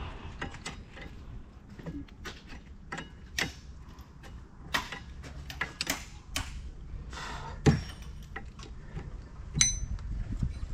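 Metal hand tools and parts being handled: irregular clicks and knocks with a few ringing metallic clinks, the loudest knock a little before 8 seconds in and a bright clink near the end.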